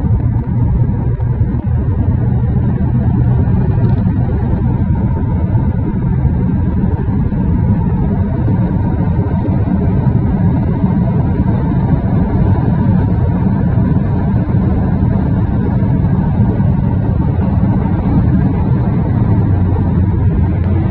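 Car engine running steadily, a loud, even low rumble with a steady hum in it and no revving.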